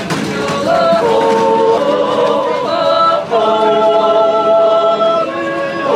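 Swiss yodel choir singing a cappella, several voices in harmony holding long chords that shift to new notes every second or so.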